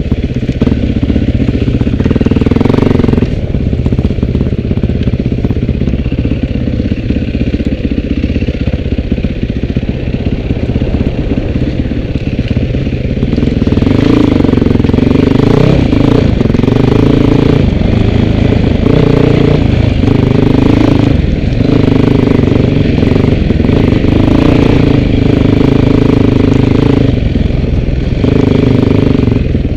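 Off-road vehicle engine running on a trail ride: fairly steady for the first half, then the throttle is opened and closed in repeated bursts from about halfway through.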